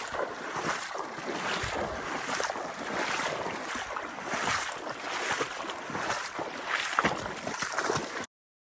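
Wind buffeting the microphone over water splashing and lapping, as heard from a canoe on open water. The noise swells and ebbs unevenly, with a few brief sharper splashes.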